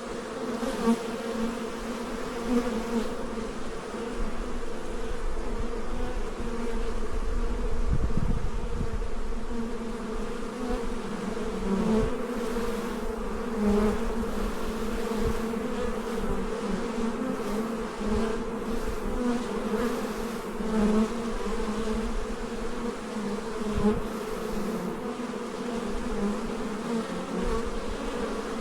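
A very active beehive: a dense, steady buzz of many bees flying around the hive, with a brief low rumble about eight seconds in.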